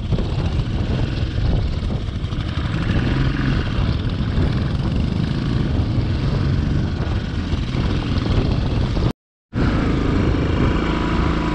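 Royal Enfield Classic 350's single-cylinder engine running steadily as the motorcycle rides along. The sound cuts out completely for a moment about nine seconds in, then picks up again.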